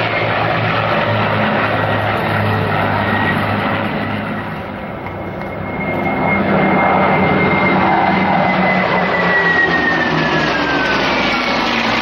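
Military aircraft formation flying past: a jet's high whine holds steady and then slides down in pitch over the last few seconds as it passes, over the low drone of piston propeller engines. The jet is an A-10 Warthog and the piston engines belong to P-51 Mustang and P-38 Lightning warbirds.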